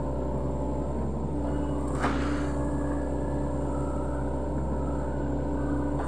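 Sany SY75C excavator's diesel engine running steadily under load as it works through heavy timber, with a sharp knock about two seconds in and another near the end.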